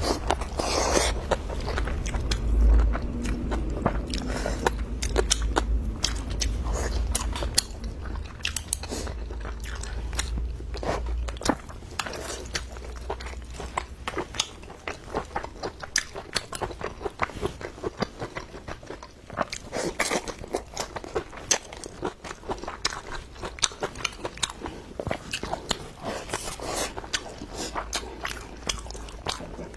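A person chewing and biting food close to the microphone, with many sharp crunching clicks throughout.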